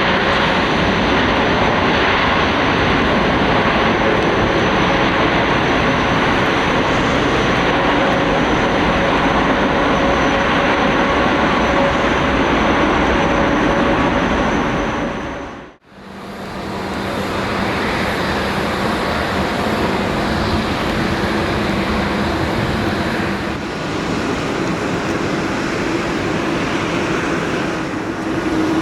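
Jet airliner engines running, a loud steady noise with a high whine. It fades out completely about halfway through, then fades back in as a similar steady engine noise with a lower hum.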